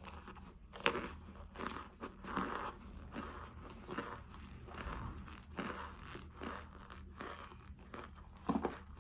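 Cornstarch chunks being bitten and chewed close to the microphone: a run of crunches, with a sharp loud snap about a second in and another near the end.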